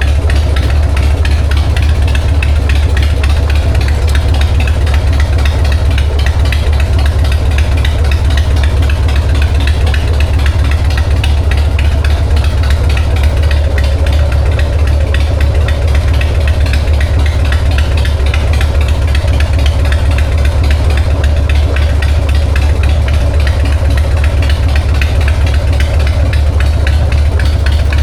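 1999 Harley-Davidson Sportster 1200's air-cooled V-twin, fed by an S&S Super E carburettor, idling steadily, running after its accelerator pump has been cleaned and replaced.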